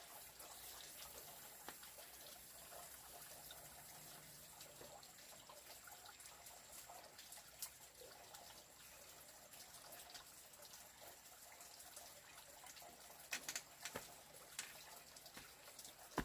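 Near silence: faint background hiss with scattered light clicks, a brief cluster of louder ticks near the end.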